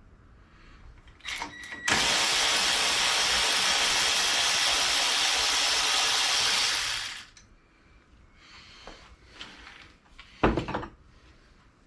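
A loud, steady hiss lasting about five seconds, starting and stopping abruptly. It is followed near the end by a sharp knock.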